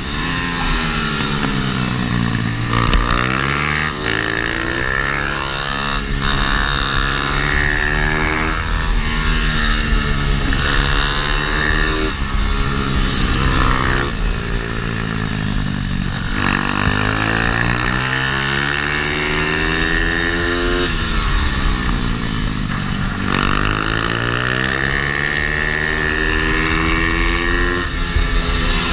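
Small single-cylinder four-stroke pit bike engine, an MRF 140, ridden hard round a kart track. It revs up steadily and drops off sharply again and again as it accelerates out of the corners and shuts off into them.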